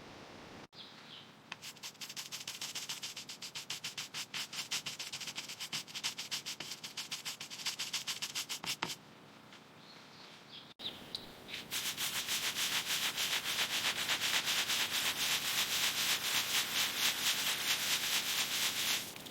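Rapid back-and-forth scrubbing of an abrasive over rusty steel, hand sanding or brushing off rust, in two runs of steady strokes, several a second, with a short pause between them.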